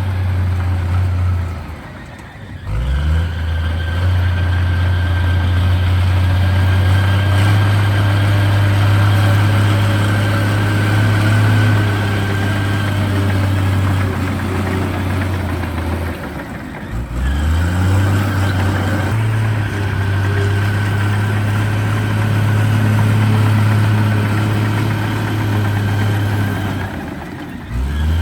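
Heavy diesel engine of earthmoving machinery running steadily with a deep hum. Three times it briefly drops away and then climbs back up in pitch.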